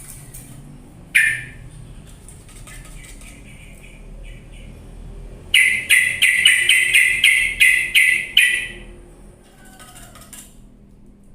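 Yellow-vented bulbul (trucuk) calling: a single sharp note about a second in, then a rapid run of about a dozen loud chattering notes, roughly four a second, near the middle.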